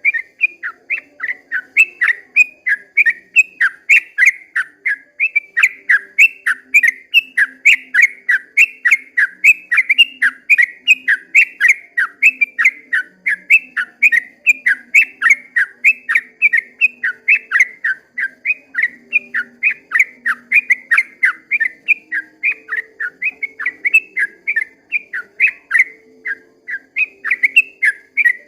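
A yellow-vented bulbul (trucukan) singing a long, unbroken run of quick, bright chirping notes, about three a second, in its 'ropel panjang' song.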